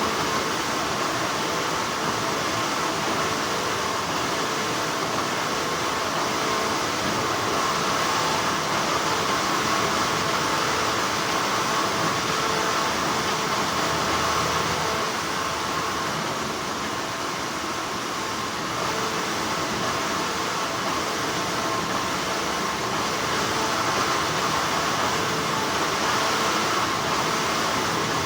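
Continuous hum of textile factory machinery: an even, steady noise with a few faint steady tones running through it.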